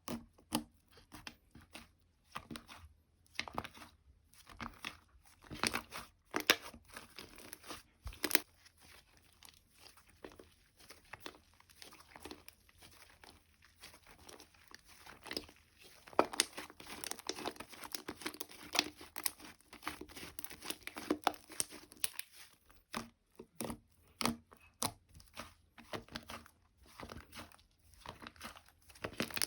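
Hands playing with slime, stretching, squishing and poking it, giving irregular sticky crackles, pops and tearing sounds, densest in the middle.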